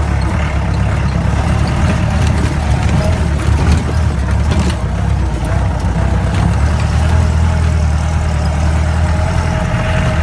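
A vehicle engine running, giving a steady low rumble.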